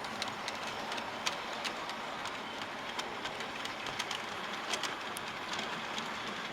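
Model trains running along the layout's track: a steady rush of wheels and motors, with scattered sharp clicks as the wheels cross rail joints.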